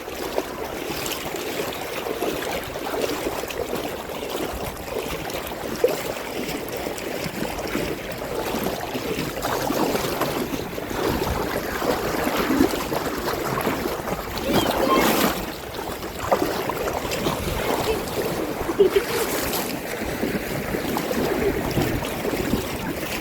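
Small sea waves lapping and sloshing in shallow water along a beach. There is a steady wash with a couple of louder surges of splashing about two thirds of the way in.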